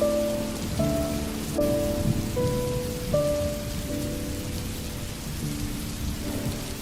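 Steady rain, with a slow, soft melody of single held notes over it, a new note roughly every second.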